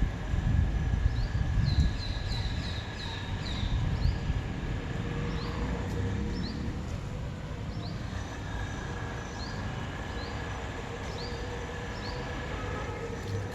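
Outdoor backyard sound: short, high, rising bird chirps repeating every half second to a second over a low rumble that is loudest in the first couple of seconds and then eases off.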